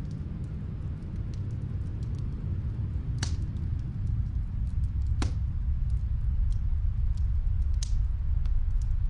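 Snowstorm wind as a steady low rumble, swelling slightly, with a wood fire crackling faintly over it and three sharper pops about three, five and eight seconds in.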